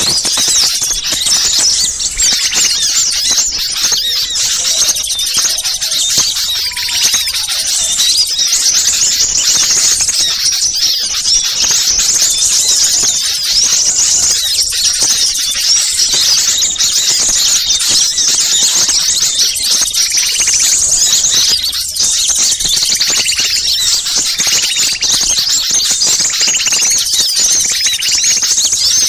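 Dense, continuous chorus of many small birds chirping and twittering at high pitch, layered over one another as a bird-lure (pikat) recording used to draw wild small birds in.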